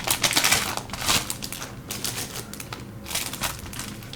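Packaging crinkling and crackling as it is handled and opened, a rapid run of small clicks and rustles. It is busiest in the first second and again about three seconds in.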